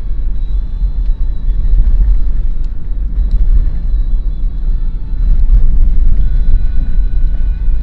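Steady low rumble of road and engine noise inside the cabin of a moving Daihatsu Terios, swelling and easing slightly.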